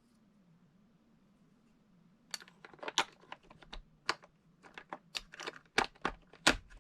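Irregular plastic and metal clicks and clacks of AA batteries being fitted into the battery compartment of a Sony WA-55 portable cassette recorder. The clicks start about two seconds in and come in quick, uneven bursts, some sharp and loud.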